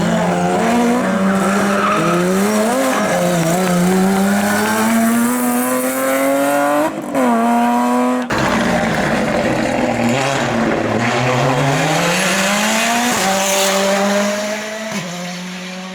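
Competition car engine accelerating hard, its pitch rising steadily with a quick gear change about seven seconds in. The sound cuts abruptly about eight seconds in to an engine climbing in pitch again, which then drops in steps and fades near the end.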